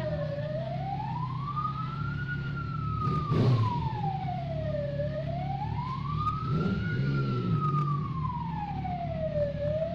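Emergency vehicle siren in a slow wail, rising and falling about every five seconds, over a steady low engine rumble. A brief louder noise cuts in about three and a half seconds in.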